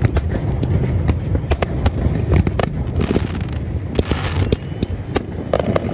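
Aerial firework shells bursting overhead in a display: a rapid, irregular string of sharp bangs and crackles over a continuous low rumble of explosions.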